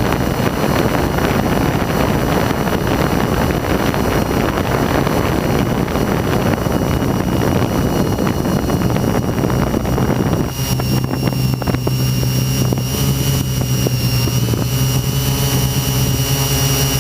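Hexacopter's electric motors and propellers running. For the first ten seconds a rush of wind noise covers them, then about ten seconds in the wind drops away and a steady buzzing hum with a high whine comes through plainly.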